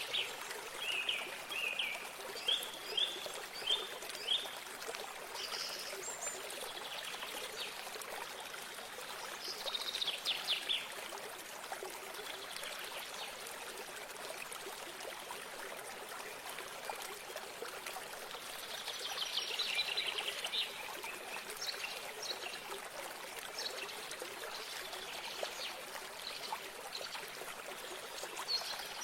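Steady trickling of a small stream of water, with songbirds calling over it: a run of about six short chirps in the first few seconds, a quick trill around ten seconds in, and a longer rapid trill around twenty seconds in.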